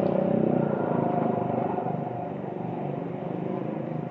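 A motor vehicle's engine running, loudest in the first second or so and slowly fading, like a vehicle passing and moving away.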